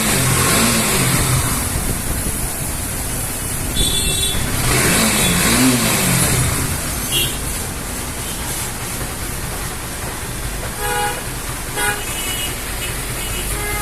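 Bajaj Pulsar AS motorcycle engine running and being revved, its pitch rising and falling near the start and again about halfway through, with several short horn toots among street traffic noise.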